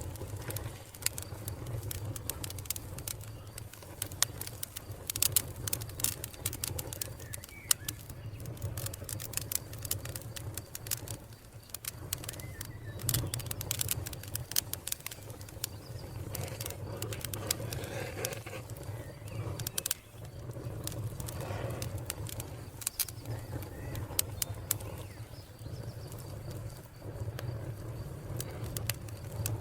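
Wood fire crackling, with frequent sharp pops over a low steady rumble. Bird calls, including cooing, sound in the background.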